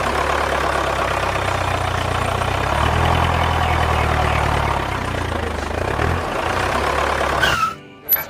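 Tractor engine running steadily, picking up for a couple of seconds partway through, then cutting off abruptly just before the end.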